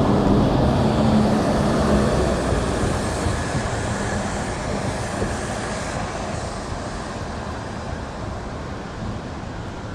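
A large vehicle going by close, its low hum and rushing noise loudest at first and fading steadily as it moves away.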